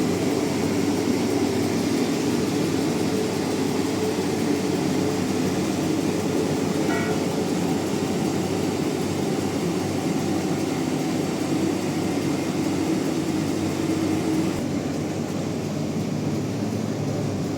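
Industrial band sawmill running steadily with a continuous low mechanical drone and hiss; a faint brief whine about seven seconds in, and near the end the sound gets slightly quieter and less hissy.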